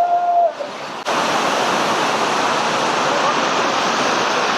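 Waterfall in full flow: steady, loud rushing of falling water, cutting in suddenly about a second in. Before it, a voice holds one short note.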